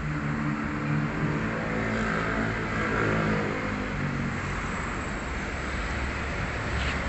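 A motor vehicle engine running, its pitch drifting and rising in the first few seconds, over a steady low hum.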